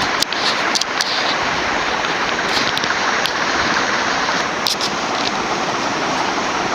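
TAT "UFO" 56-inch industrial ceiling fan running on high speed: a steady rush of air from its blades, with a few light clicks.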